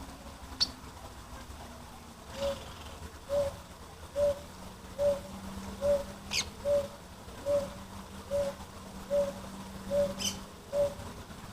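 A bird giving a steady series of about eleven short, low hooting notes, a little over one a second. A few thin, high, sharply falling calls come from a smaller bird, over a steady low hum.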